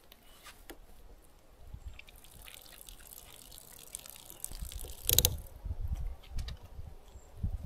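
Water dripping and trickling, with a sharp clatter about five seconds in.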